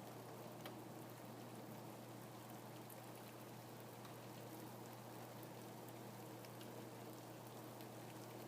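Faint steady rain: an even hiss with separate drops ticking now and then, over a low steady hum.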